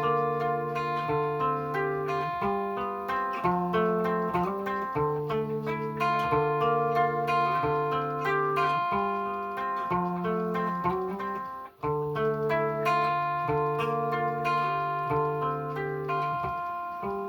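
Guitar with a capo on the 10th fret, picked note by note in a repeating arpeggio pattern that sounds pitched well above open position. The notes break off briefly about twelve seconds in, then the pattern starts again.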